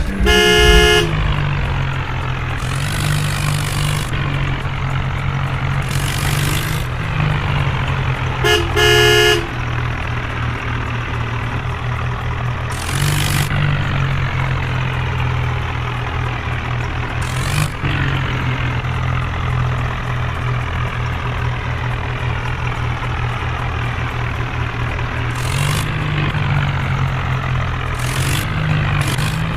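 Tractor diesel engine running steadily, its pitch stepping up and down every few seconds, with short horn toots right at the start and again about nine seconds in.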